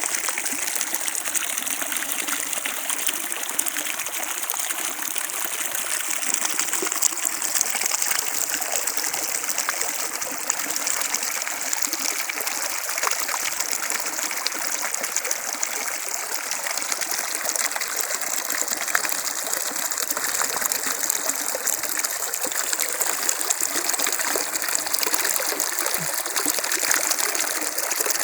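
Running water flowing steadily, with fine trickling and splashing.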